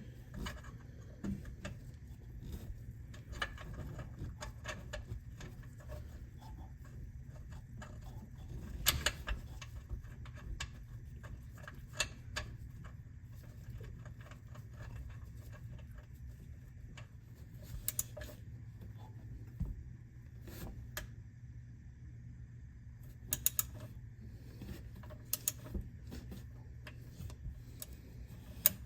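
Scattered small metallic clicks and clinks of hand tools as the oil drain plug, fitted with a new gasket, is put back into the oil pan, over a low steady hum.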